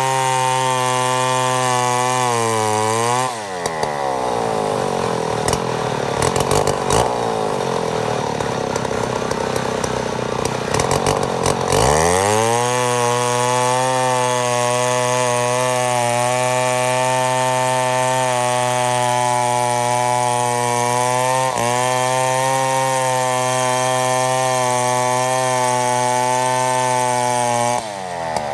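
Chainsaw running hard while ripping a mahogany log lengthwise into slabs. Its pitch sags about three seconds in into a rougher, noisier stretch as the saw loads down, climbs back about twelve seconds in and holds steady, then turns rough again near the end.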